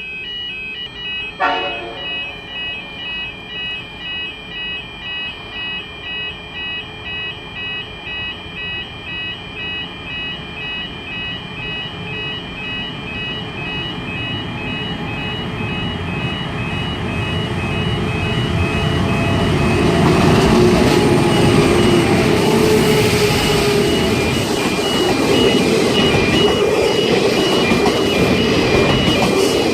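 Level crossing warning bells ringing steadily at about two strokes a second. A train hauled by two CM-class diesel locomotives then approaches and passes, the engines and wheels on rail growing loud about 18 seconds in.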